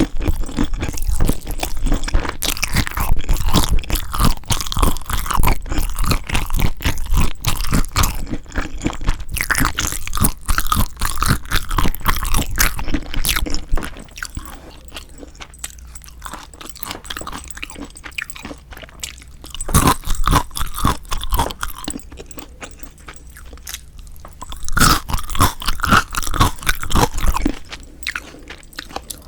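Close-miked eating of seasoned marinated raw shrimp: wet crunching, biting and chewing, dense and steady for roughly the first half, then quieter with two short bursts of chewing, around 20 s and again from about 25 s.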